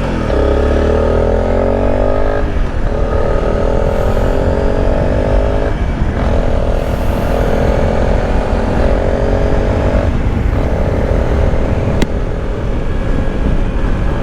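Motorcycle engine running under way, its note shifting in pitch three times, over a steady low rumble from the ride.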